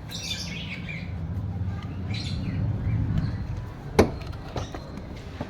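Birds chirping faintly over a low steady rumble, with one sharp click about four seconds in.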